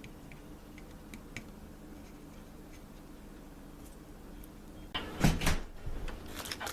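Handling noise at a workbench: a few faint clicks over a low steady hum, then a short clatter of knocks about five seconds in and a few more near the end, as small parts or tools are moved and set down.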